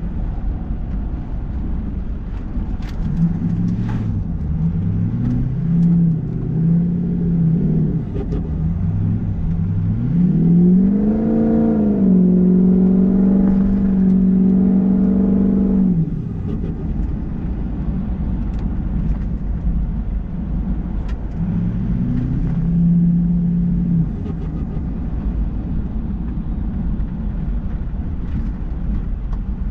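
Ford 6.0 Powerstroke V8 turbodiesel pickup engine under way, its revs rising and falling several times. About ten seconds in it climbs, holds steady for a few seconds, then drops off suddenly, with a shorter rise again later. A steady low rumble of road noise runs underneath.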